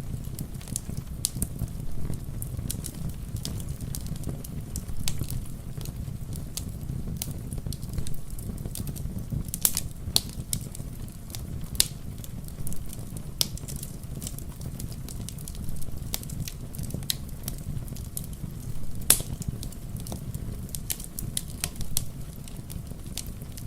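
Wood fire crackling, with irregular sharp pops and snaps over a steady low rumble; one pop about two-thirds of the way in is the loudest.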